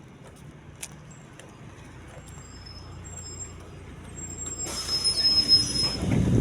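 MAZ-203 city bus with its engine running, a low hum that slowly grows louder. About five seconds in, a sudden loud hiss of air from the bus's pneumatic system starts and carries on.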